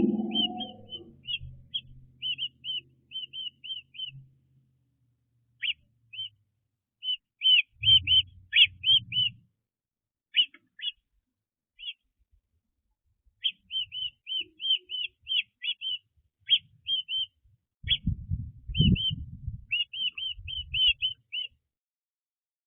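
Small birds chirping: short high notes in quick runs of several, with pauses between. Twice there is a brief spell of low rumbling bumps.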